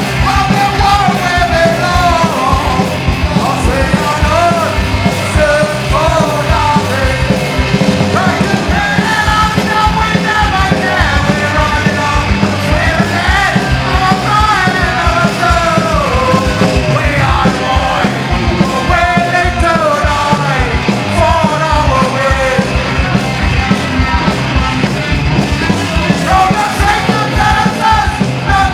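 Live punk rock band playing a song: shouted vocals over a full band with a steady, driving drum beat.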